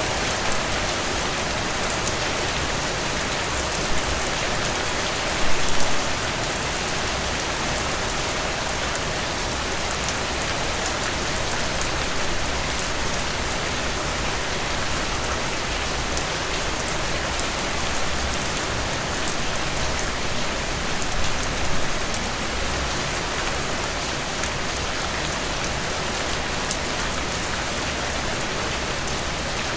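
Steady rainfall pattering on a surface, a dense even hiss of drops with fine high ticks. The rain is a little louder briefly about five and a half seconds in and again about twenty-one seconds in.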